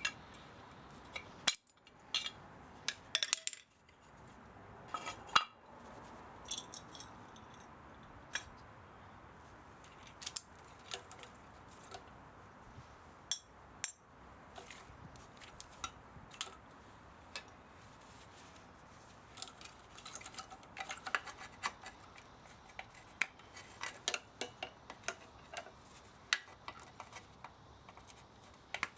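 Hand tools and metal parts of an old spa pump motor clicking and clinking as the motor is taken apart for scrap. The sharp, irregular clicks come in quick clusters near the start and again later, with sparser single clicks in between.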